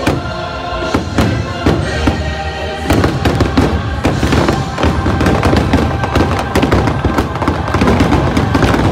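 Fireworks finale: many shells bursting in rapid succession over the show's music, growing denser and louder about three seconds in.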